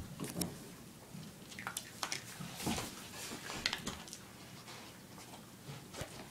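A dog sniffing around for a hidden treat: a string of short, irregular sniffs with light clicks and rustles.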